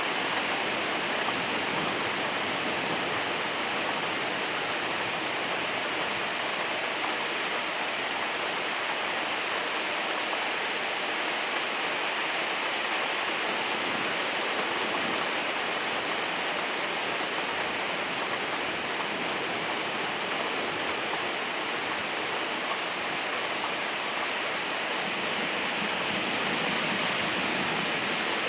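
Steady, heavy rain falling, an even hiss with no breaks or separate drops standing out.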